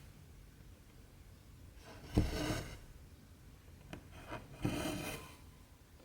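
Cotton embroidery thread drawn through 14-count cross-stitch fabric with a needle: two rasping pulls about two and a half seconds apart, each starting with a sharp tick, with a couple of lighter ticks between them.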